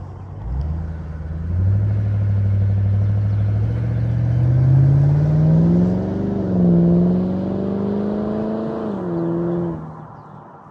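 2006 Ford Mustang GT's 4.6-litre three-valve V8 revving through Flowmaster FlowFX mufflers. The engine note climbs steadily in pitch, dips briefly about six seconds in and rises again, then drops and fades near the end.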